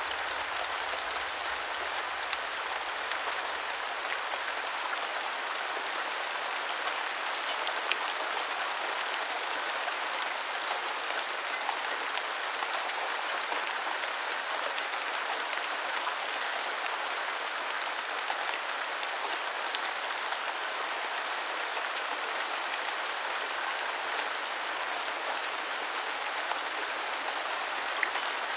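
Steady rain, with a constant hiss and a scatter of individual drops ticking.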